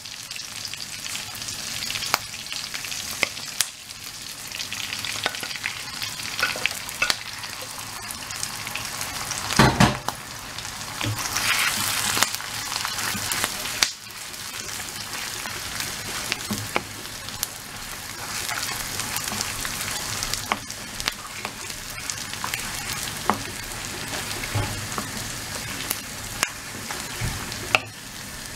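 Sliced beef, onion and garlic sizzling in hot oil in a wok, stirred with a wooden spatula that clicks and scrapes against the pan. A loud knock comes about ten seconds in, and the sizzle flares up just after it.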